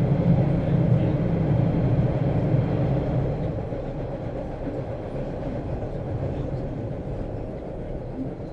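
Subway train running, a steady low rumble that eases off and grows quieter about three seconds in.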